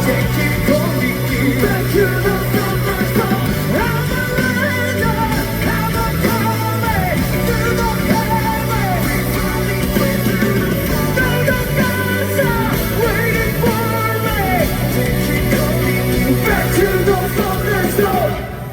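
Live rock band playing loud, with a melody that bends up and down in pitch over a steady bass and drum backing. The band stops sharply just before the end.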